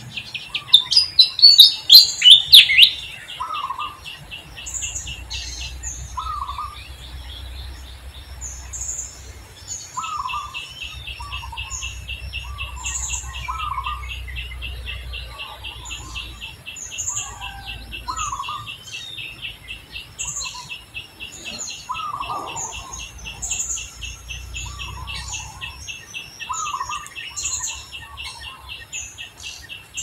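Birds chirping and calling: short low notes repeating every second or two over higher chirps and a steady, fast pulsing buzz. The loudest moment is a burst of rapid chirps about two seconds in.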